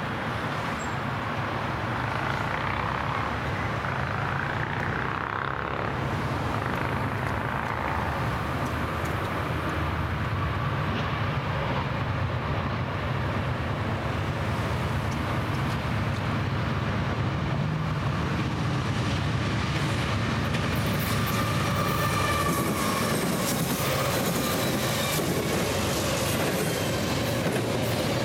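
Norfolk Southern double-stack intermodal train approaching and passing: a steady low rumble that grows louder. From about twenty seconds in, the locomotives' and stack cars' wheels pound over the interlocking's rail joints and switches in quick clacks.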